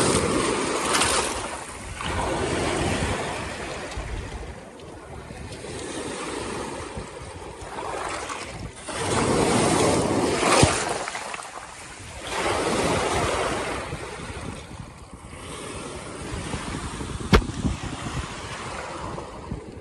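Lake waves breaking over a rocky shore and washing back out over the rocks, surging and ebbing every few seconds. A single sharp click comes near the end.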